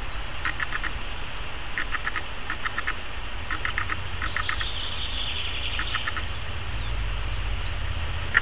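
A bird calling in short rapid chattering bursts of four or five notes, the bursts repeated about once a second, over a steady low rumble.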